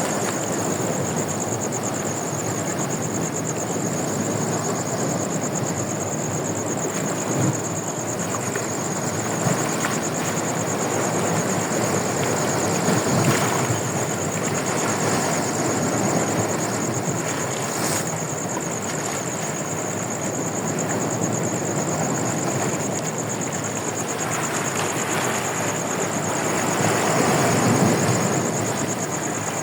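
Sea waves washing onto a beach, a continuous rushing that swells and ebbs every several seconds, with wind buffeting the microphone. A thin, steady high-pitched tone runs underneath.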